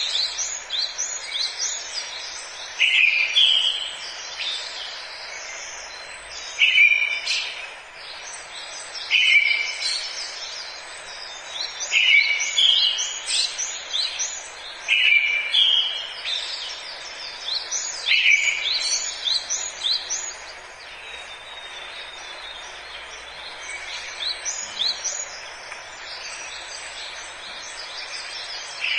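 Forest birdsong: one bird repeats a short song phrase about every three seconds, with other birds chirping high and quick. A steady hiss of forest ambience runs underneath. The repeated phrases stop about two-thirds of the way through and come back near the end, while the chirping goes on.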